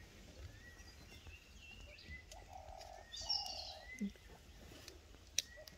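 Wild birds calling faintly. There is a run of short rising whistled notes about once a second, and two longer held notes a little past the middle. A single sharp click comes near the end.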